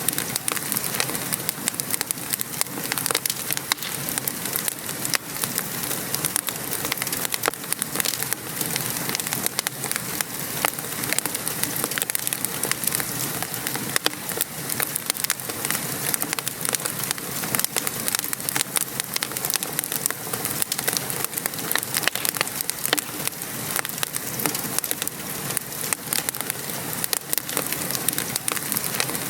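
Wood fire crackling with steady rain falling outside: a continuous hiss with many quick, irregular pops and ticks throughout.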